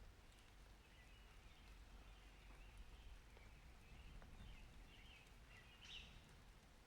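Faint outdoor ambience: a low steady rumble with a few faint, scattered bird chirps.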